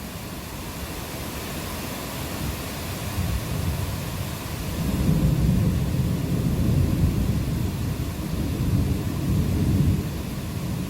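Steady rain falling during a thunderstorm, with a long low rumble of thunder that swells about four and a half seconds in and eases off near the end.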